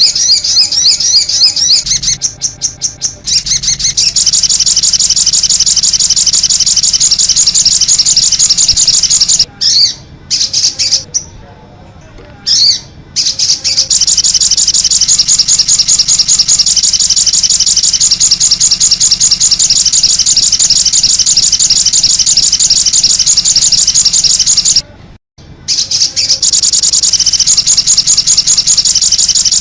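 Sogon bird chirping loudly in a long, fast run of high, rapidly repeated notes. The run breaks off briefly a few times, for about two seconds around the middle and for about a second near the end.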